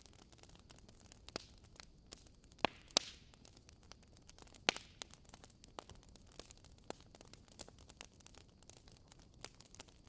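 Logs burning in a fireplace, crackling with a steady scatter of small pops and three louder sharp snaps a little before the middle.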